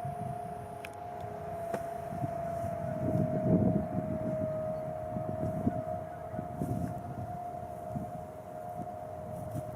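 Outdoor warning siren sounding a steady tone, its pitch sagging slightly in the middle, over a low rumbling noise.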